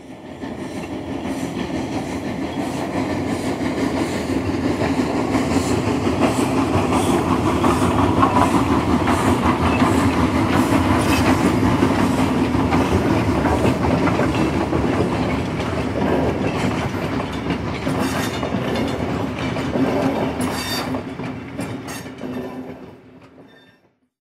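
A train rolling along the rails with wheels clicking over the track. It grows louder toward the middle and fades away near the end, with a run of sharper clicks about three-quarters of the way through.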